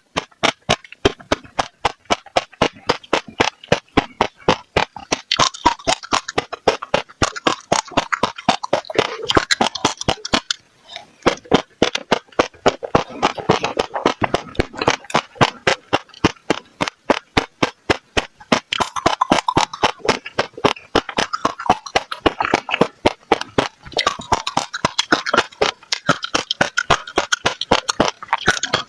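Passion fruit seeds being bitten and crushed between the teeth, close to the microphone: a rapid run of sharp, crisp cracks, several a second, with wet mouth and chewing sounds between them and a brief pause about eleven seconds in.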